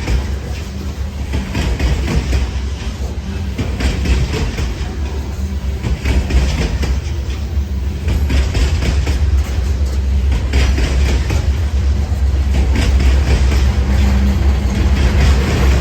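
Norfolk Southern freight train rolling past: a steady heavy rumble, with wheels clicking irregularly over the rail joints.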